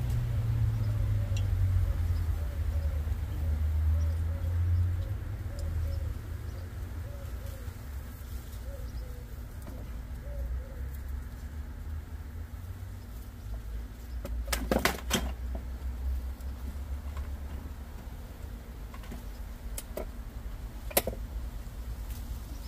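A bird calling in a quick repeated series, about two calls a second, for the first ten seconds or so, over a steady low rumble. A few sharp clicks come later, a cluster about two-thirds of the way through and two more near the end.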